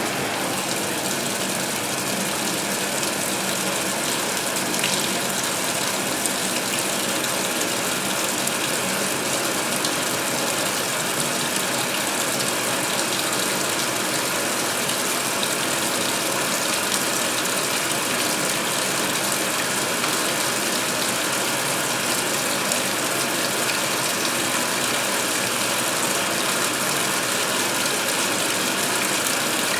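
2016 Speed Queen top-load washer filling its tub with water for the rinse, a steady rushing of water pouring in over the towels.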